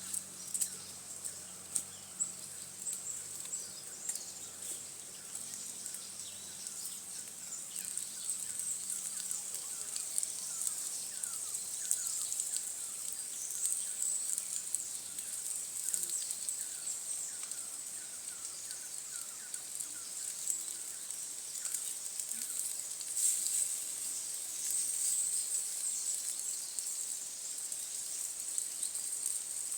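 Forest ambience: insects droning in a steady high-pitched band, with a run of short, quick, repeated chirps through the middle and scattered faint clicks.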